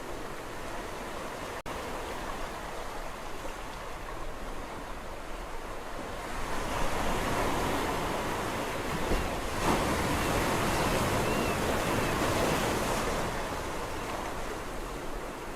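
Sea waves rushing on the shore as a steady wash, with one wave building about six seconds in, breaking loudest in the middle and easing back near the end. There is a momentary dropout about a second and a half in.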